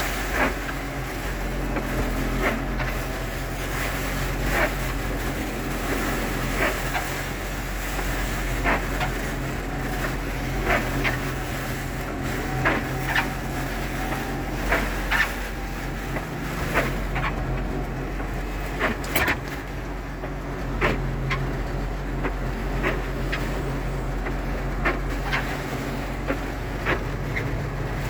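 Heavy storm: strong wind and rain over a steady low hum, with sharp knocks every second or two.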